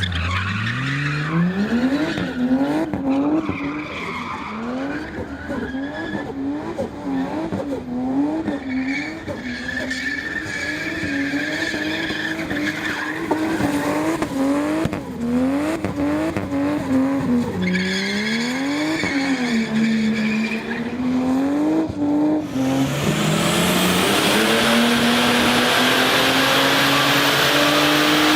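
Turbocharged Ford Barra 4.0-litre straight-six in a car being driven hard, its revs swinging rapidly up and down while the tyres squeal. Near the end it changes to one long steady climb in revs under a loud rushing hiss.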